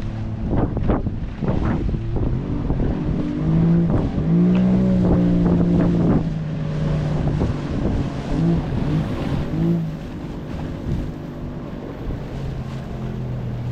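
A small boat's motor running steadily, its pitch rising a little about four seconds in and easing back after about six seconds, with wind buffeting the microphone and water noise.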